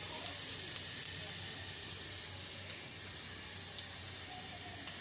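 Panch phoron, dried red chillies and cumin seeds frying in hot oil in a kadai: a steady sizzle with a few faint ticks.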